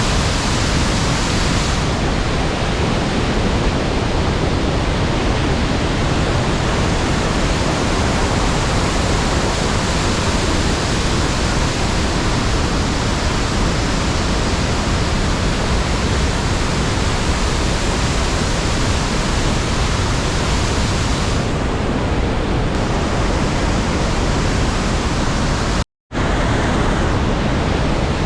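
Iguaçu Falls roaring: a loud, steady rush of falling water with no let-up, cutting out for a moment near the end.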